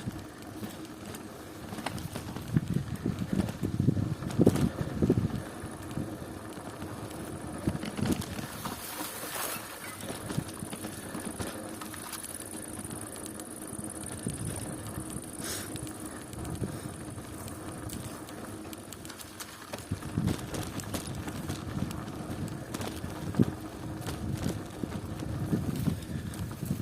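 Bicycle on the move, its tyres and drivetrain running with a faint steady hum, while uneven low rumbles of wind buffet the microphone.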